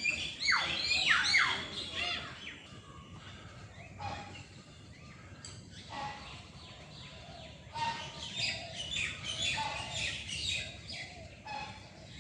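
Many birds of mixed kinds calling and chirping at once, with a dense burst of calls sliding in pitch in the first two seconds, thinner in the middle, and busy again from about eight seconds in.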